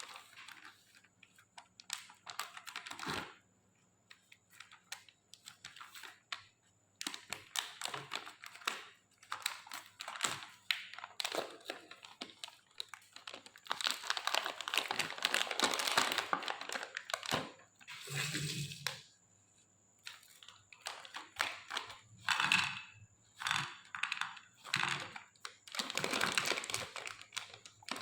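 Plastic candy wrappers crinkling and rustling in irregular bursts as jelly candies are unwrapped and handled. A faint steady high-pitched tone runs underneath.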